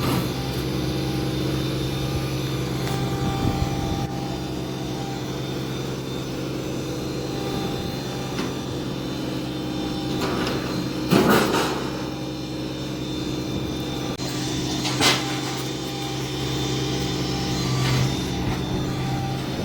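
New Holland Boomer 24 compact tractor's diesel engine running steadily while working. Two loud sudden bangs cut across it, one a little past halfway and a shorter one a few seconds later.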